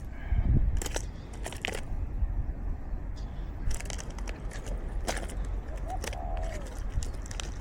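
Wind rumbling on the microphone, with scattered crackling clicks and one short whistled bird call that rises and then falls about six seconds in.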